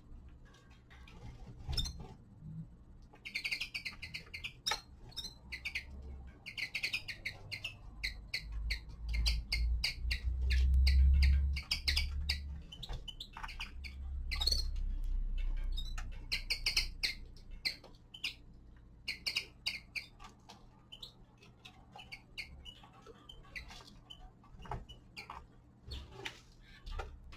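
Small finches chirping in quick, short calls, with scattered sharp clicks and taps. A low rumble rises and falls through the middle and is loudest about ten seconds in.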